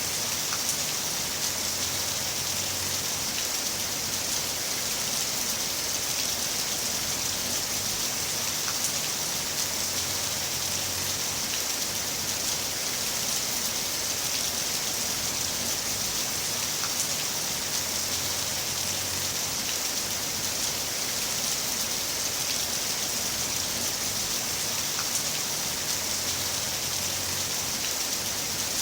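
Heavy rain falling steadily, a dense, even hiss with the odd faint drop tick standing out.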